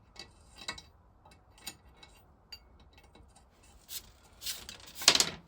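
Light clicks and clinks of metal vaporiser parts and hand tools being handled and turned during a strip-down. Louder scraping clatter comes about four to five seconds in.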